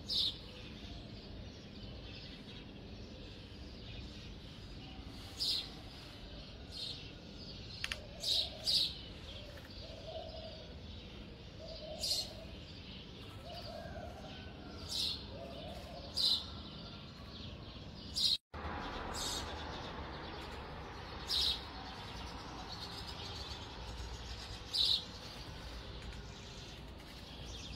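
A bird chirping: single short, high chirps every second or few seconds over a steady background hiss.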